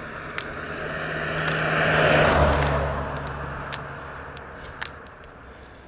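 A car passing by on the road, swelling to its loudest about two seconds in and then fading away, tyre noise over a low engine hum. A few light taps, likely the walker's footsteps, sound through it.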